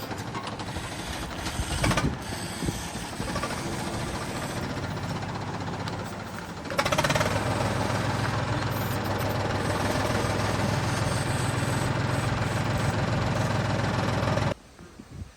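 Eicher 885 RC toy tractor running with a steady hum that gets louder about seven seconds in, then stops abruptly near the end.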